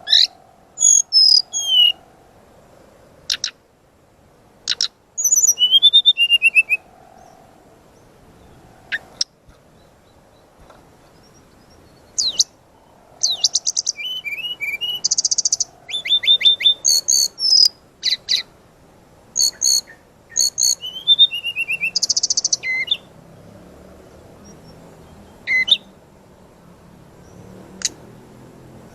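A brown-chested jungle flycatcher sings a varied, full song in bursts. High whistled glides, fast trills, buzzy runs and sharp chips come in separate phrases with short pauses between them, and a dense run of phrases falls in the middle.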